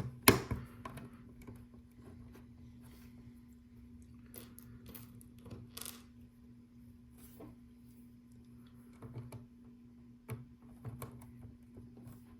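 Small plastic LEGO pieces clicking and rattling as they are picked out and pressed into place: one sharp click just after the start, then scattered light clicks, over a faint steady hum.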